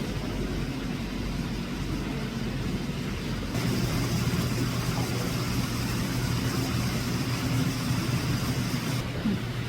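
Steady machine hum with a rushing noise. A louder hiss comes in about a third of the way through and cuts off abruptly near the end.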